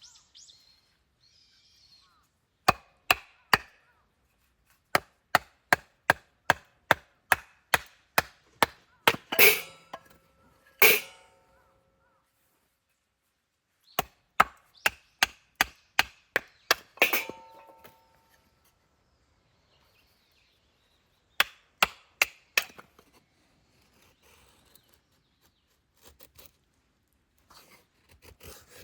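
Series of sharp knocks in bursts, about two a second, a few of them ringing briefly.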